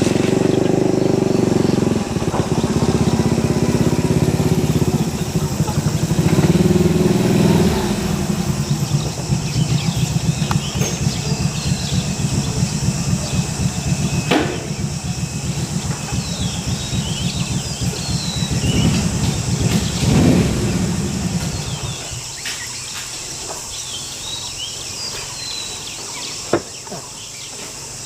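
Motorcycle engine running, its pitch shifting over the first several seconds, then dying away about three quarters of the way through. Short bird chirps sound over it in the second half.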